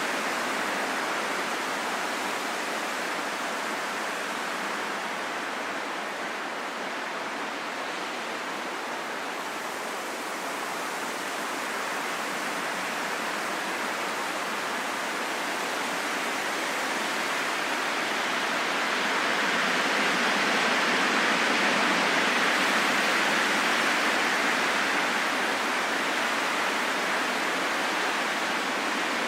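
Wind blowing as a steady rushing noise, swelling louder about two-thirds of the way through, then easing off a little.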